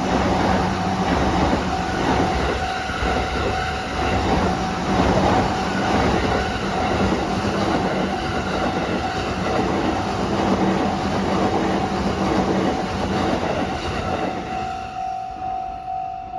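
JR Saikyo Line electric train passing close by a level crossing: a steady loud rush of wheel and rail noise with some clickety-clack, while the crossing's warning bell rings throughout. Near the end the train noise dies away, leaving the bell ringing about twice a second.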